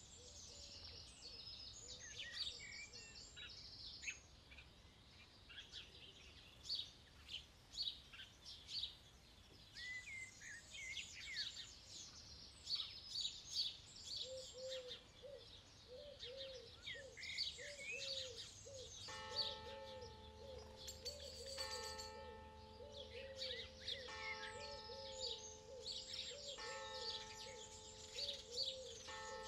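Faint birdsong: several birds chirping and trilling, with a lower short call repeated about twice a second from about halfway in. Soft steady tones join about two-thirds of the way in.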